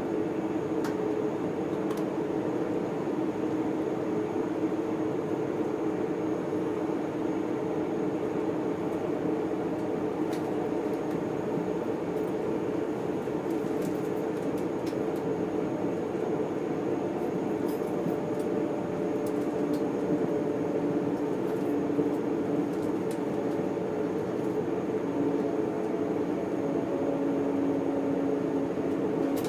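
Steady running noise of a train heard from inside the passenger carriage, with a low hum that dips slightly in pitch near the end and a few faint ticks.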